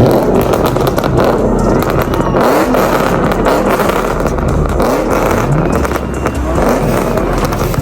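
Car engines revving and accelerating hard. The engine note sweeps upward several times over a loud, continuous rushing and crackling noise.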